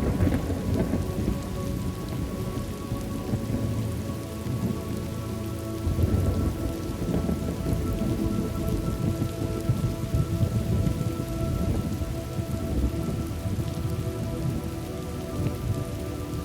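Steady rain with thunder rumbling, swelling right at the start and again about six seconds in, over soft sustained background tones.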